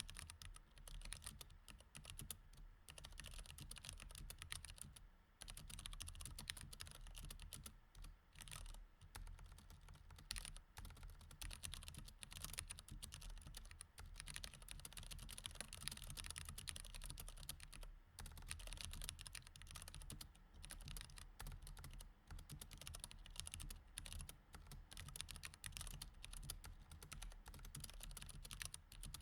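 Mechanical keyboard with Cherry MX Red switches being typed on quietly in a steady, fast stream of key clicks, with brief pauses about five and eight seconds in.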